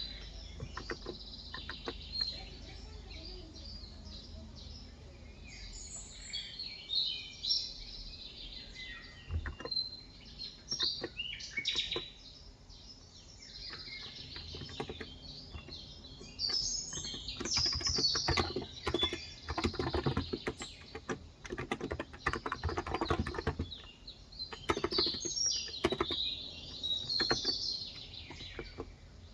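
Typing on a Cox Endeavor 35 g tenkeyless electrostatic capacitive (non-contact) keyboard: soft rapid keystrokes in a few short runs early on, then a long dense run through the second half. Birds chirp and tweet throughout.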